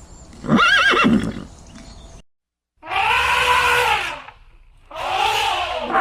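A horse whinnying: a short call with a quavering pitch about half a second in. After a brief gap, two louder animal calls with an arching pitch follow.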